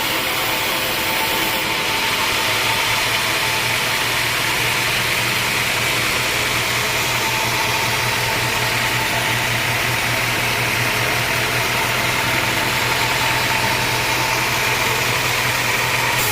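Homemade band sawmill running steadily: a continuous machine drone with a low hum and a broad hiss, with no distinct cuts or stops.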